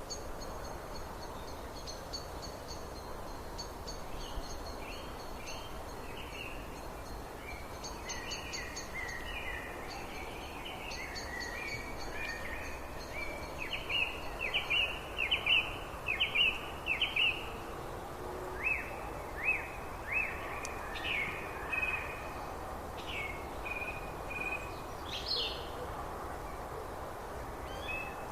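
Birds singing: runs of short, sharp, downward-sliding notes, thickest and loudest in the middle, over a steady background hiss. A high, evenly pulsing trill runs through the first part.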